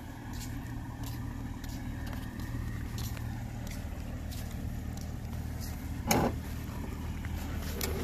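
A 2021 Toyota Supra idling with a steady low hum, and a brief loud thump about six seconds in.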